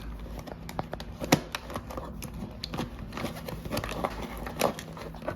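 Irregular small clicks and rustles of wires and plastic parts being handled and pushed into place, over a steady low hum.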